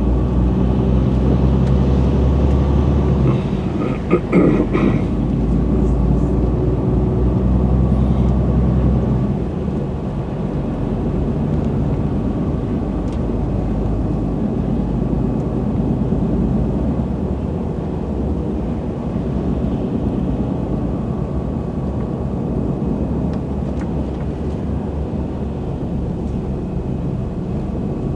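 Truck engine running with road noise while driving. The low engine drone eases off about nine seconds in, and a short sound rises over it at about four seconds.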